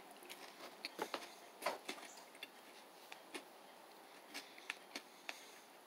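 Faint, scattered clicks and small crunches of a person chewing a granola bar with his mouth closed.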